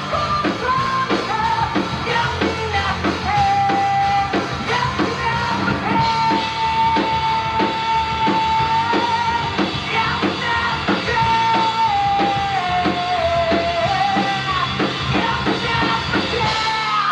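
Live rock band of drums, guitar, bass and keyboard playing loud rock, the drum kit keeping a steady beat under a long held melody line that steps down and slides lower in pitch near the end.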